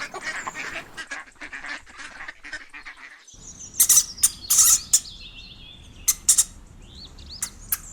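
Ducks quacking. First comes a rapid run of short calls; about three seconds in the background changes abruptly and louder, separate quacks follow, with thin high chirps behind them.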